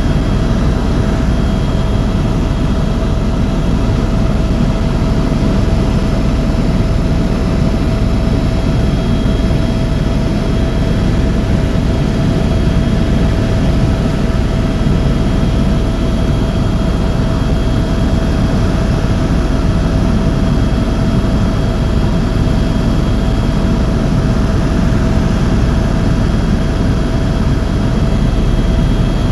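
Helicopter in flight: a loud, steady drone of turbine engine and rotor with a constant whine over it.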